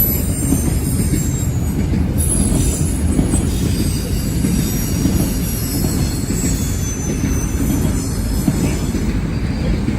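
Freight train rolling past at close range: a steady heavy rumble of rail cars on the track, with thin, high-pitched wheel squeal wavering above it.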